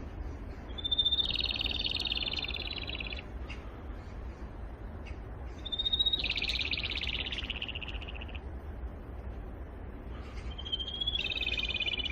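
Rufous-tailed robin singing three times, a few seconds apart. Each song is a short high note followed by a fast rattling trill that falls slightly in pitch and lasts about two seconds.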